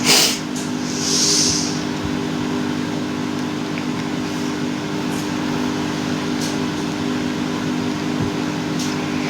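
Steady electric hum of a fan or motor running, holding a fixed low tone, with a short hiss right at the start and another about a second in.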